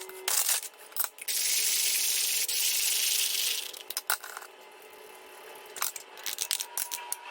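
Small electric coffee grinder running for about two and a half seconds as it grinds a batch of coffee beans, with clinks and rattles of beans and the grinder before it starts and a few clicks after it stops.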